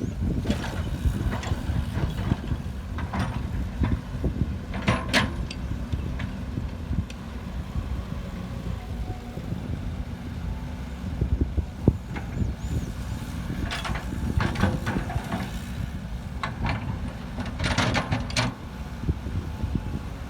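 Heavy construction machinery, dump truck and excavator diesel engines, running with a steady low rumble. Short higher-pitched hissing or squealing sounds come through about five seconds in and again near fourteen and eighteen seconds.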